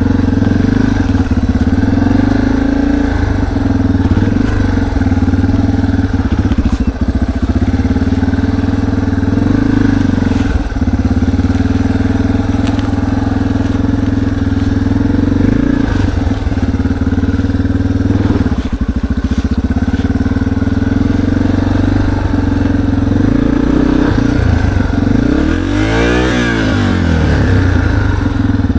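Four-stroke dirt bike engine running steadily, close by, at a fairly constant low speed, with a brief dip and rise in pitch near the end.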